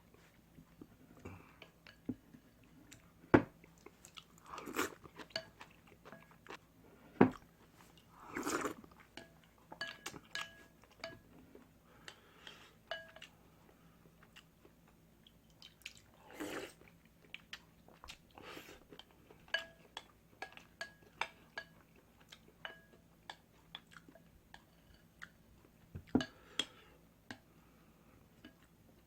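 Close-miked eating of ramyun: chewing and biting with occasional crunches, scattered small clicks, a few sharp knocks, and several short noisy bursts.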